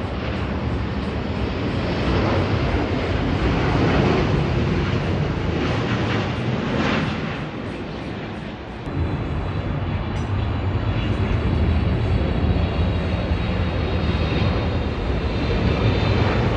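Jet airliner's engines on approach to land: a continuous broad roar that swells, dips briefly about halfway, then grows again with a high whining tone coming in over it.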